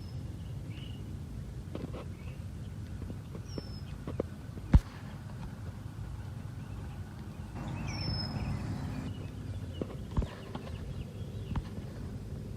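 Outdoor ambience: a steady low rumble with scattered soft taps, one sharp knock about five seconds in, and a few faint, short high chirps of a small bird.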